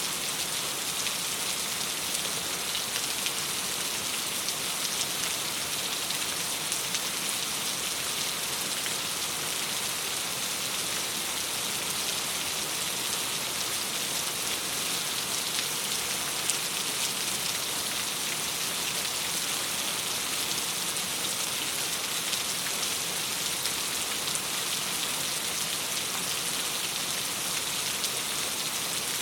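Steady rain falling against a window: an even hiss with many small drop taps, unchanging throughout.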